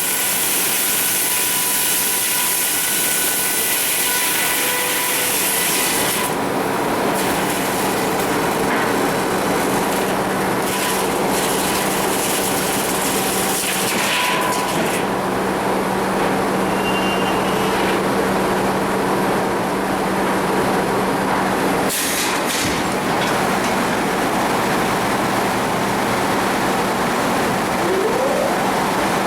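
Sawmill machinery running steadily: a constant hum under a dense mechanical din that shifts several times, with a few short sharp noises along the way.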